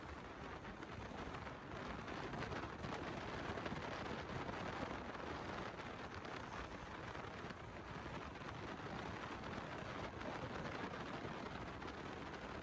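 Steady rushing wind noise over the microphone of a moving motorcycle, with no distinct engine note standing out.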